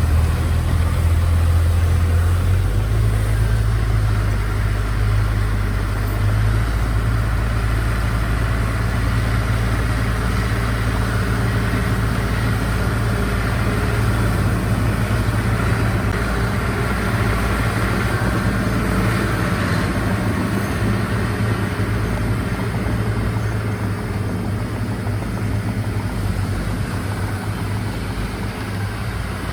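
Diesel engine of heavy earthmoving equipment running steadily, its engine note shifting a couple of times in the first several seconds.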